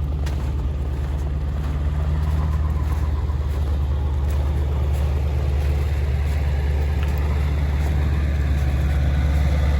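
Ford 7.3 L Power Stroke turbo-diesel V8 running steadily at high idle, a low, even drone.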